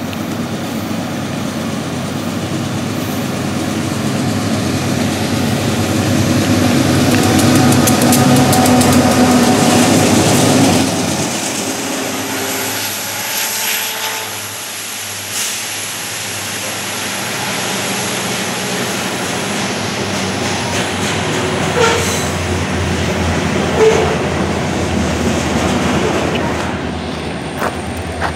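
Union Pacific diesel locomotives heading a grain train run past and beneath, their engine drone building to a peak about ten seconds in and then dropping away sharply. The covered hopper cars follow with a steady rolling rumble and a couple of sharp clanks near the end.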